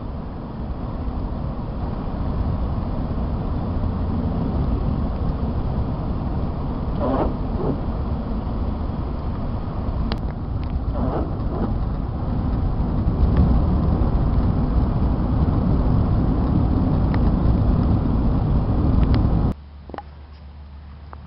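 Steady low rumble of a car driving on a snowy road: road, tyre and engine noise. Near the end it cuts off suddenly to a much quieter low hum.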